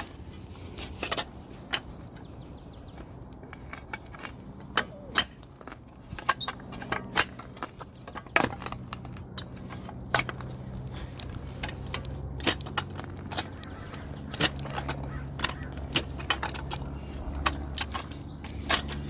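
Digging in soil around a sprinkler with a hand tool: irregular sharp scrapes and clinks of metal against dirt and stones. A low steady hum runs underneath.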